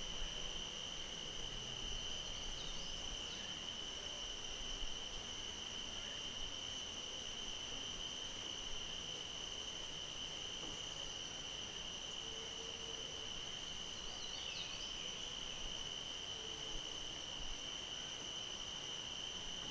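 Dusk insect chorus: a steady, unbroken high-pitched chirring of crickets or similar insects. Faint short bird calls come through twice, about three seconds in and again around fifteen seconds in.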